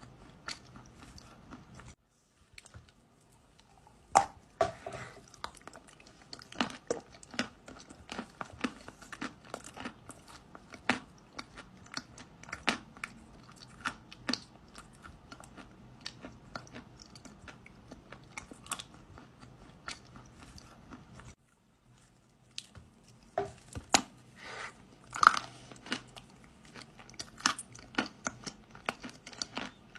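Close-up chewing of dry kaolin clay: irregular sharp crunches and cracks as the brittle clay is bitten and ground between the teeth. There are brief silent breaks about 2 seconds in and again about 21 seconds in.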